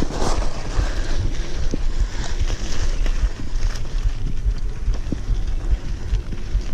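Wind buffeting the microphone of a bicycle rider on the move, a steady low rumble, with scattered knocks and rattles from the bike.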